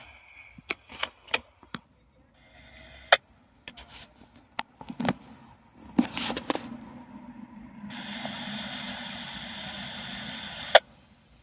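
Scanner radio between dispatch transmissions: scattered sharp clicks, a short burst of static about two and a half seconds in, then an open channel hissing for about three seconds near the end, cut off by a loud click.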